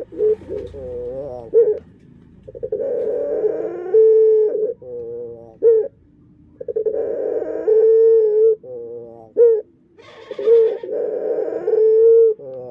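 Male puter dove cooing: several long coo phrases around a steady low pitch, some wavering and some held, each followed by a few quick short notes. Its voice is unusual, and the keeper wonders whether it is unique or a defect.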